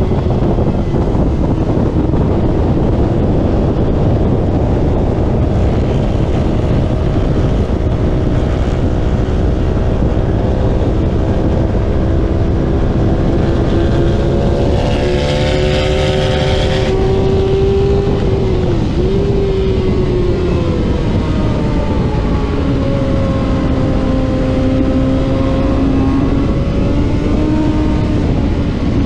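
Racing motorcycle engine run hard at speed, heard onboard under heavy wind rush. The engine note holds fairly steady, drops sharply and recovers about two-thirds of the way through as the gear changes, then settles lower and climbs again near the end. A brief hiss comes a little past the middle.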